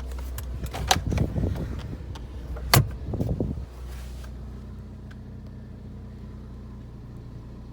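Ford Ka 1.2 engine idling as a steady low hum. For the first three and a half seconds there is handling noise and a few clicks, the loudest a sharp click nearly three seconds in.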